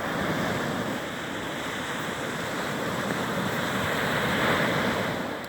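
Sea waves breaking and washing up the shore: a steady rush that swells to its loudest about four and a half seconds in, then falls away near the end.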